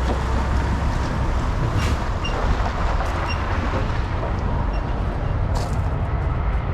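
Steady low rumble and hiss of vehicle noise, with no distinct events.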